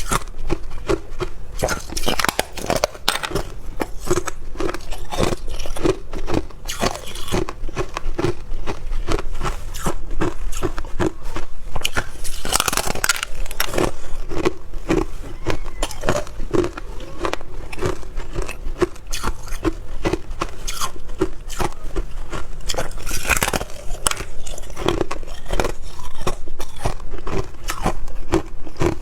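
Hard clear ice being bitten and chewed close to the microphone: a continuous stream of cracking crunches in a steady chewing rhythm, with a few louder bites spread through.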